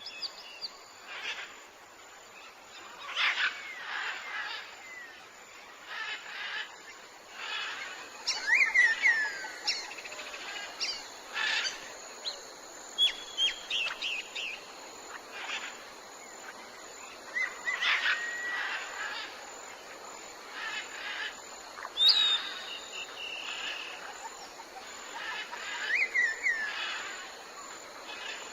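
Forest birds chirping and calling: scattered short chirps, trills and falling whistles, over a faint steady high buzz.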